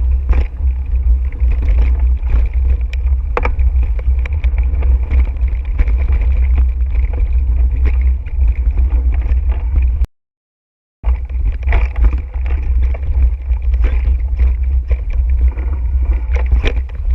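Wind rumbling hard on the microphone of a mountain bike ride camera, with scattered clicks and clatter from the bike and tyres on the trail. The sound cuts out completely for about a second just past the middle.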